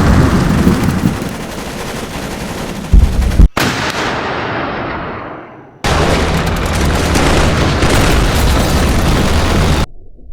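A run of separate battle sound effects, each cut off short. First a dense burst of gunfire-like noise with two sharp bangs near its end. Then a blast that dies away. Then another dense, crackling burst that stops abruptly.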